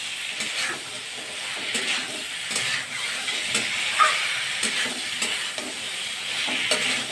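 Potatoes and cauliflower in masala sizzling in hot oil in a metal kadai while a spatula stirs and scrapes them as they are sautéed (kosha). A steady sizzle runs throughout, with irregular scraping clicks of the spatula against the pan.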